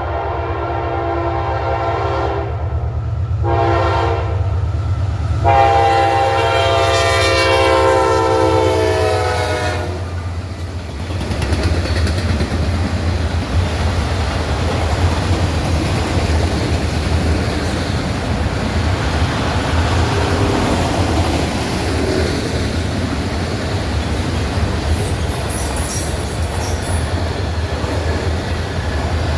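Freight locomotive air horn ending a grade-crossing signal: a long blast, a short one, and a final long blast whose pitch drops as the locomotive passes. Then the steady rumble and clatter of freight cars rolling by, with a brief high squeal about two-thirds of the way through.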